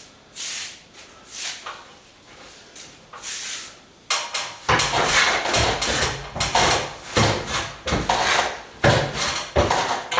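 A hand tool scraping and rubbing over a plastered wall in repeated strokes, sparse at first, then quicker and louder from about four seconds in.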